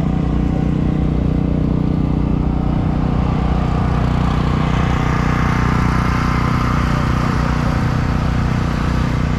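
Motorcycle engine running steadily at low speed, with no revving.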